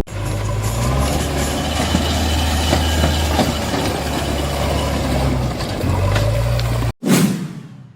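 A vehicle engine runs steadily with a low hum under a noisy rumble, then cuts off abruptly about seven seconds in. A single loud hit follows and rings away within a second.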